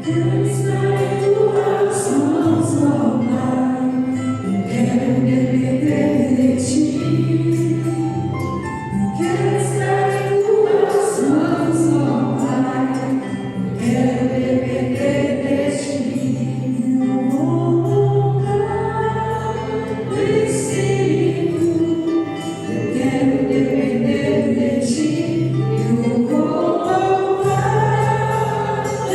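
Christian worship song in Portuguese, sung by a group over instrumental backing with steady bass notes and regular bright cymbal-like hits.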